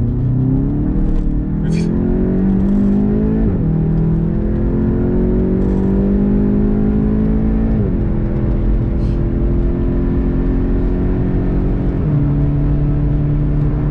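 Volkswagen Golf GTI TCR's turbocharged four-cylinder engine heard from inside the cabin, accelerating hard through the gears. Its pitch climbs, then drops at each of three upshifts, about three and a half, eight and twelve seconds in.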